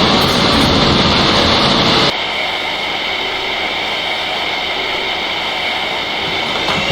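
R143 subway car running on the L line: a loud, even rumble of the moving train that drops abruptly about two seconds in to a quieter, steady hum with faint high tones.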